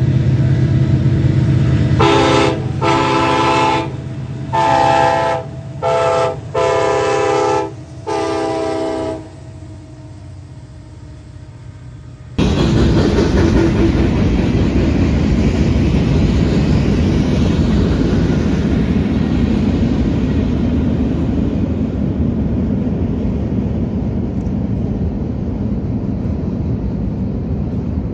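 Union Pacific SD70ACe diesel locomotive running, then sounding its Nathan K5LLA five-chime horn in a run of blasts of different lengths as a horn show. About four seconds after the horn stops, a loud rumbling rush starts suddenly: the freight train rolling past.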